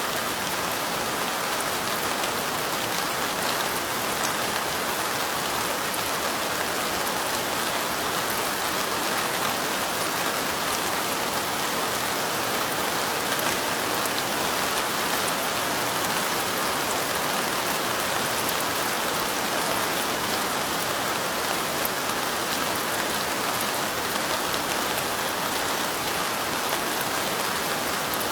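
Steady light rain: an even hiss of rainfall with a fine patter of individual drops, unchanging throughout.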